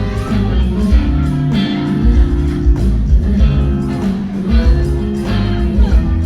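Live band playing rock-style music with guitar over a heavy bass and a steady beat, heard from behind the stage.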